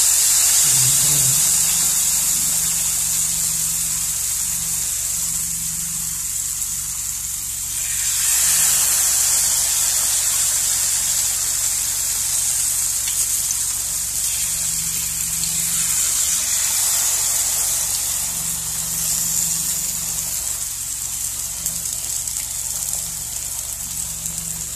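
Nigerian pancake batter frying in shallow hot oil in a pan: a steady sizzling hiss that swells and eases, louder about eight seconds in.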